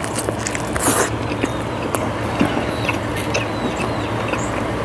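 Baby chickens peeping in short falling chirps over a steady low hum and background noise, with scattered small clicks.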